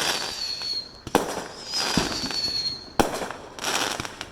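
Fireworks going off: sharp bangs about a second in and again about three seconds in, each followed by crackling, with a further crackling burst shortly after the second bang.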